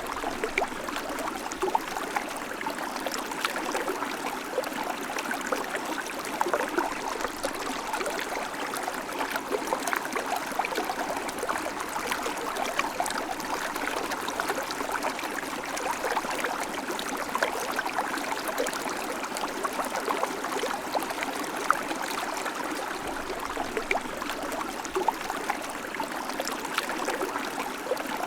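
River water flowing, a steady rush with many small splashes and gurgles.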